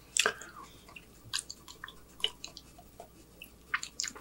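Close-miked chewing of a mouthful of burger: irregular wet mouth smacks and clicks, one louder smack just after the start.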